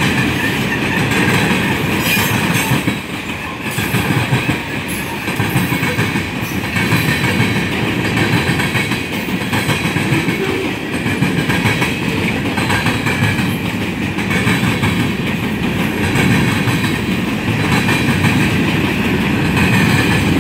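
Freight cars of a long mixed freight train rolling steadily past, their wheels clattering over a railroad diamond crossing.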